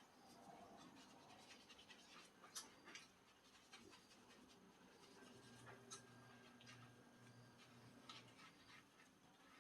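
Near silence with faint scattered clicks and light scratching, and a faint low hum through the second half.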